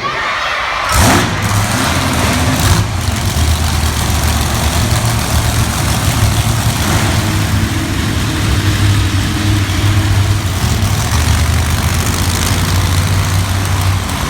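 Monster truck engines, started right after a short burst of noise about a second in, then running steadily at a low, deep idle.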